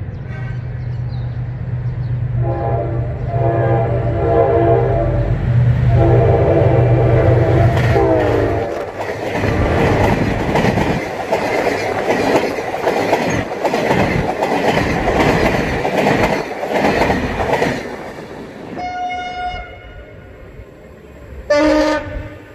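Diesel locomotive engine running as it approaches, sounding two long multi-tone horn blasts, the second dropping in pitch as it passes. Then passenger coaches rush by close with loud wheel clatter on the rails, and near the end another train sounds its horn twice, briefly.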